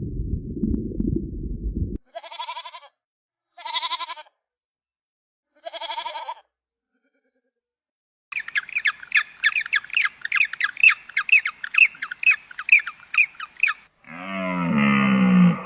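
A run of animal calls edited back to back: a low rumble, then three short high calls, then a rapid series of chirps at about four a second, then a deep call with sliding pitch near the end.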